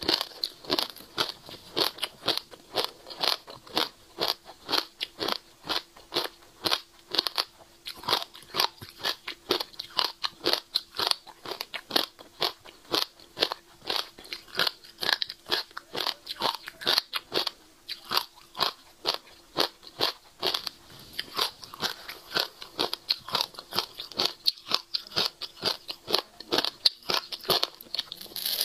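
Passion fruit seeds being chewed close to the microphone: a steady, fast run of crisp crunches, about three to four a second.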